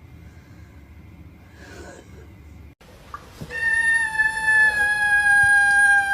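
A cat giving one long, drawn-out yowl that starts about three and a half seconds in and falls slightly in pitch as it is held.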